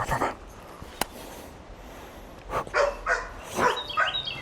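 A dog barking a few short times, starting about halfway through. Near the end a bird chirps in quick repeated notes.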